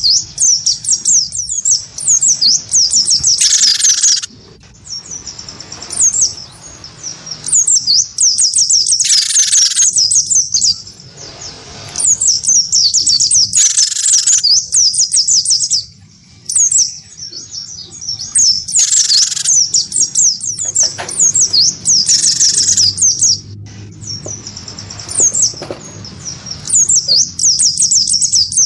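Caged songbirds, a cinereous tit (gelatik batu) and an Oriental white-eye (pleci), singing back and forth: rapid runs of high chirps and twitters in repeated bursts of a few seconds, broken by short pauses and a few brief, fuller calls.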